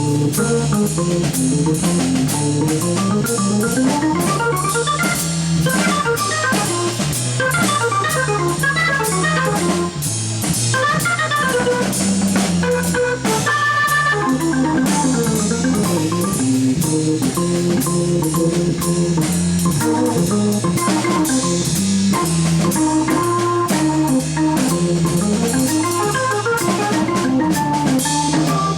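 Live jazz organ trio playing: an organ holding chords and a moving line of low bass notes, with a drum kit keeping time.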